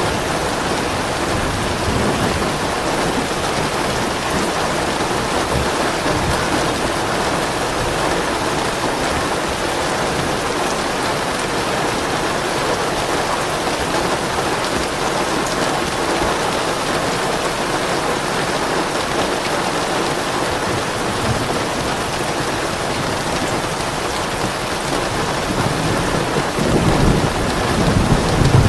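Steady heavy rain pattering on surfaces, with a low, soft roll of thunder building near the end.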